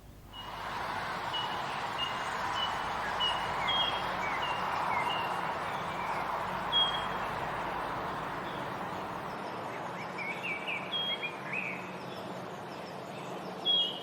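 Woodland birds chirping and calling, short high notes scattered over a steady background hiss, with quick runs of falling notes later on. The ambience rises in about half a second after the start.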